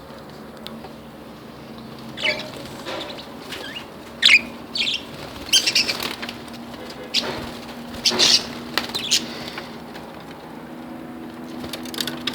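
Budgerigars chirping in short, sharp bursts, with wing flutters among them. The calls bunch up in the middle of the stretch.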